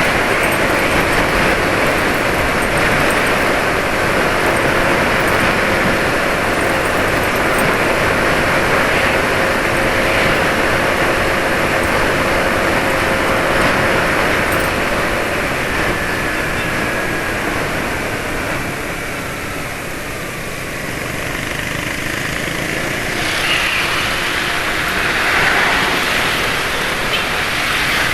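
Steady road-traffic noise from motorbikes running on a road, their engines and tyres blending into one continuous din. A faint falling whine passes about 16 seconds in, and the noise eases briefly around 20 seconds before rising again.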